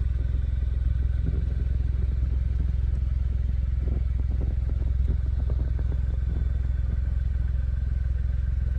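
Car engine idling steadily: a constant low hum that holds even throughout, with faint irregular rustling over it around the middle.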